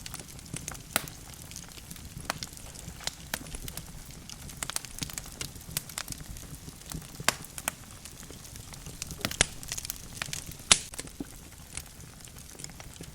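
Wood fire crackling in a fireplace: burning logs give off irregular sharp pops and snaps over a soft low rumble of flame, with one loud pop near the end.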